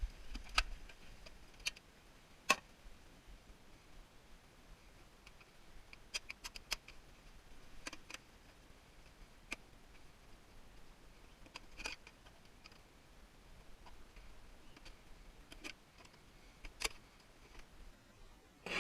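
Scattered sharp clicks and taps, a dozen or so at irregular intervals, typical of tools and small metal parts being handled while a tankless water heater is taken apart.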